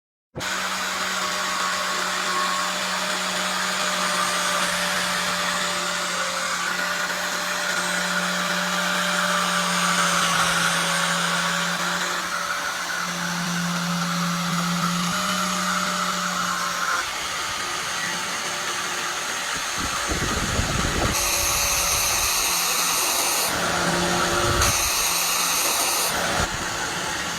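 A small electric power tool running steadily with a constant motor whine. About twenty seconds in, its sound roughens with deeper, uneven rumbling bursts, as when the tool is pressed into the work.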